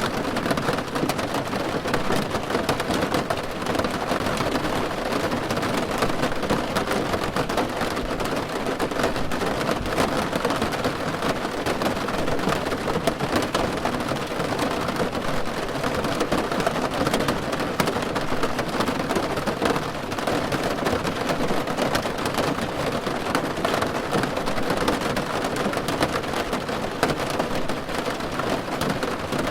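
Steady rain falling on a car roof, a dense, unbroken patter of drops.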